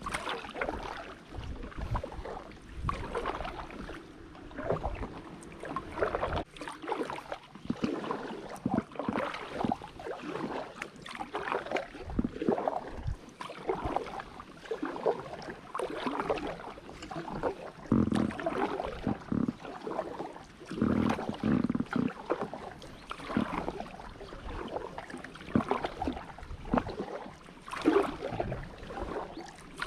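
Kayak paddle strokes in calm water, a splash and swish every second or two as the blades dip and pull, from an inflatable drop-stitch kayak.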